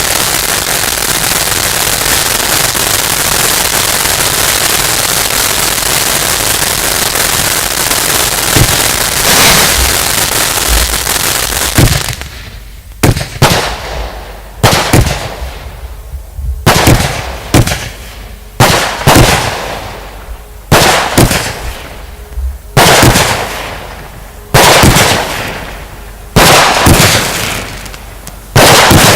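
Fireworks going off: about twelve seconds of dense, continuous crackling, then a run of loud separate bangs every second or two, each trailing off.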